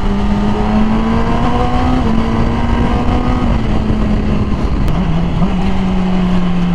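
Yamaha R6 sport bike's inline-four engine with an aftermarket Graves exhaust, running at steady cruising revs under wind rush. The revs edge up over the first two seconds, drop about three and a half seconds in, then hold steady.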